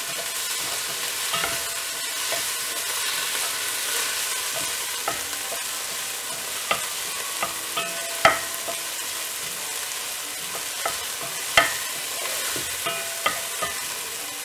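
Chopped onion, tomato and coriander leaves sizzling in oil in a pan as they are sautéed, stirred with a wooden spatula that knocks and scrapes against the pan now and then. Steady sizzle, with the sharpest spatula knocks about eight and eleven seconds in.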